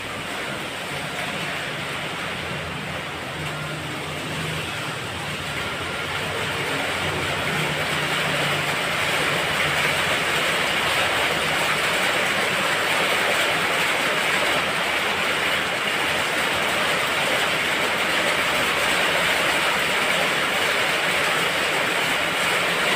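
Steady rain falling, a even hiss that grows heavier between about six and ten seconds in and then holds.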